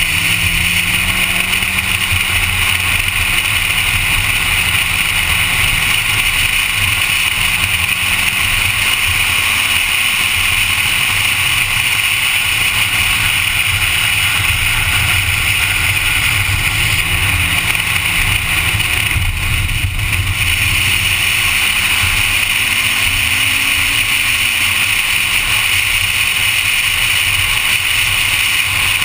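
A Honda Civic's engine running hard on a racetrack lap, its pitch rising and falling through gear changes and corners, under a steady hiss of wind and road noise.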